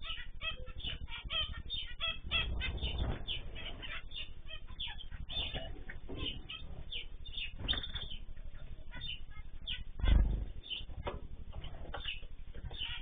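A flock of small cage birds chirping and calling continuously in quick, overlapping notes. Twice, at about two and a half and about ten seconds in, there is a louder burst of wing flapping.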